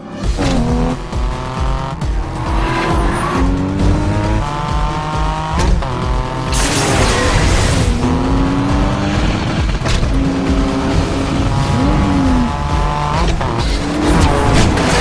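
Race car engines accelerating hard from a standing start, the pitch climbing and dropping back with each gear change, over a film score. A burst of tire screech comes about halfway through.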